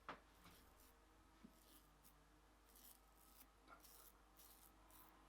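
Faint short scrapes of a double-edge safety razor cutting lathered stubble, several separate strokes, after a sharp click just at the start.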